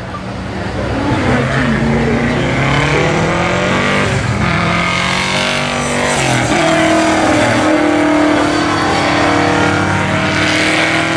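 Rally car engine accelerating hard, its pitch climbing and dropping sharply at gear changes about four and six seconds in, then holding high.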